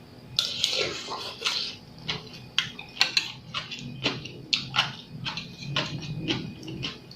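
Close-up eating sounds: chewing and slurping of seafood papaya salad with squid and cockles, with many short sharp clicks of utensils against a dish.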